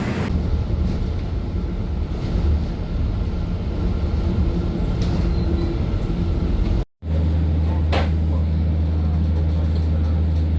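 Steady low rumble of a vehicle in motion. It breaks off into a moment of silence about seven seconds in, then resumes as a louder, steady low hum.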